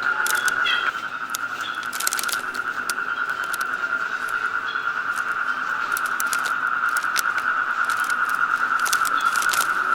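Jungle ambience: a steady, high-pitched insect drone, overlaid by irregular crackling footsteps on forest-floor litter, with a few short bird chirps near the start.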